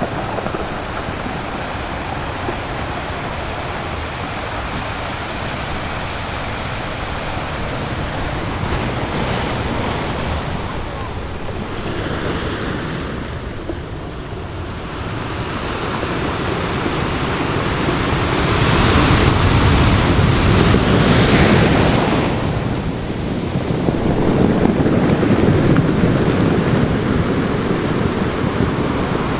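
Ocean surf: waves washing in as a steady rushing noise that swells louder twice in the second half.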